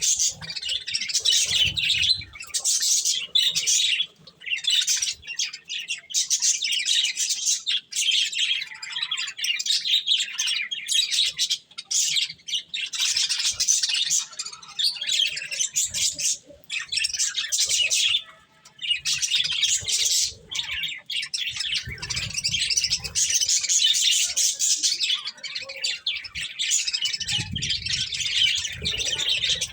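Budgerigars chirping and warbling in a continuous, high-pitched chatter broken by a few short pauses. A low rumbling noise comes in twice in the second half.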